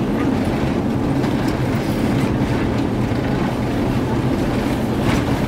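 Steady low hum and rush of an Airbus A350-900's cabin in flight: engine and airflow noise heard from a passenger seat.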